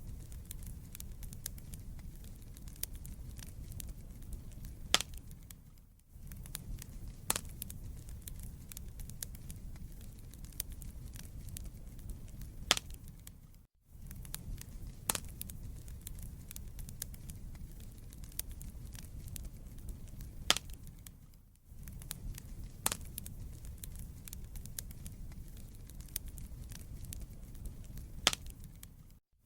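Wood fire burning in a fireplace: a steady low rumble of the flames with irregular sharp crackles and pops from the burning logs. The sound briefly dips or drops out about every eight seconds.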